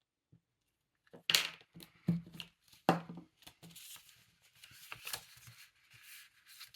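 Paper being handled and rustled, starting after a moment of quiet, with two sharp knocks about a second apart early on and a light crinkly rustle after.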